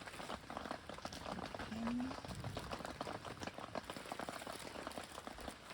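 Pot of broth boiling on a camp stove: a steady, dense bubbling and crackling.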